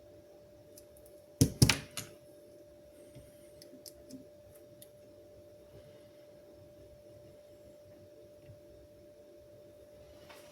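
A quick cluster of sharp knocks about a second and a half in, then a few faint clicks, over a steady faint hum.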